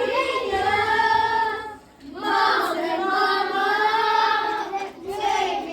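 A group of young children singing together without accompaniment, in phrases of long held notes broken by short breaths about two seconds in and again near the end.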